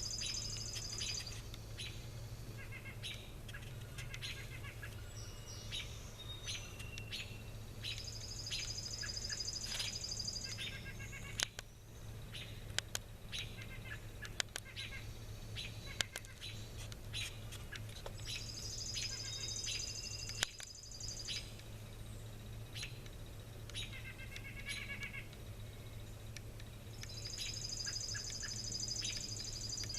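Wild songbirds singing: a long, high trilled song of about two seconds comes four times, roughly every nine seconds, with shorter chirps and calls in between. A few sharp taps sound near the middle, over a steady low hum.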